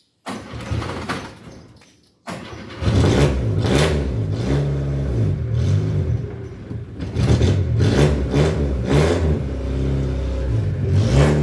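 A 1971 Ford Corcel's four-cylinder engine is started. A first short burst dies away, then it catches about two seconds in and runs with several throttle blips.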